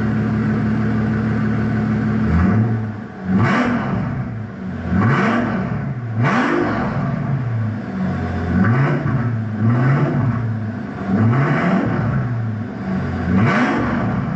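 Straight-piped twin-turbo V12 of a 2004 Mercedes-Benz S600 idling steadily, then revved in about seven quick blips, each rising and falling back to idle.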